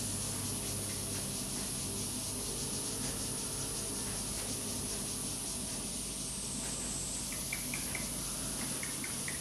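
Steady high-pitched insect buzzing over a low background hum, with a few faint short chirps near the end.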